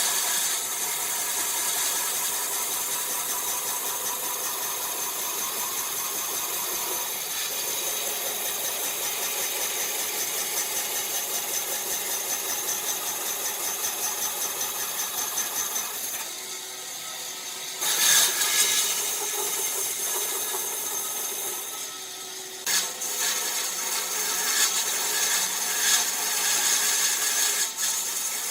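Power woodworking tools running and cutting wood, a steady machine hiss with a few fixed tones. The sound breaks off abruptly twice in the latter half and resumes slightly changed.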